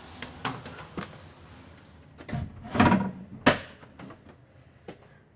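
Several knocks and clunks of things being handled, the two loudest close together about three seconds in.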